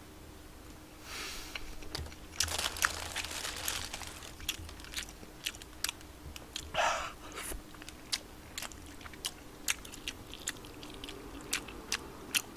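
Close-miked eating of spicy tteokbokki: chewing with sharp wet mouth clicks, densest a couple of seconds in, a brief louder burst about seven seconds in, then scattered single clicks.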